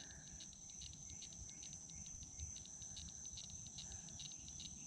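Faint insect chorus in the woods: a steady high-pitched drone with a rapid, even pulsing chirp over it.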